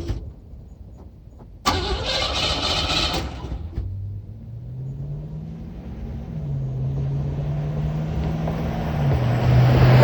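A classic Cadillac's starter cranking for about two seconds, then the engine catches on this hard start and runs, its speed rising and settling unevenly.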